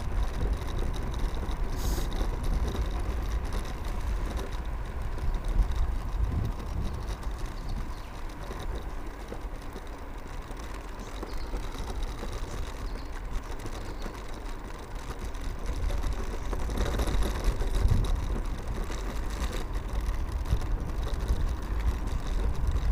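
Wind rumbling on the microphone, with tyre and road noise, while riding a 1000-watt electric scooter. It swells and eases, louder near the start and again from about two-thirds of the way in.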